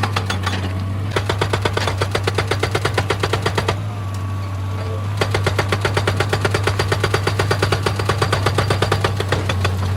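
Excavator-mounted hydraulic rock breaker hammering stone in rapid blows, several a second, with a pause near the start and a longer pause mid-way, over the steady hum of the excavator's diesel engine.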